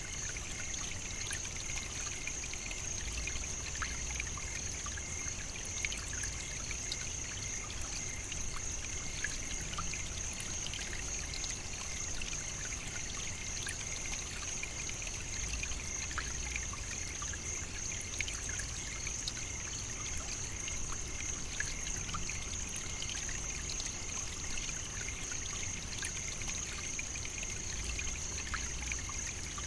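Savannah nature ambience: water trickling, with a steady high-pitched drone that does not change.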